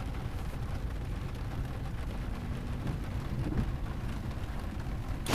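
Heavy rain drumming on the roof of a car, heard from inside the cabin, over a steady low rumble. A single sharp click comes at the very end.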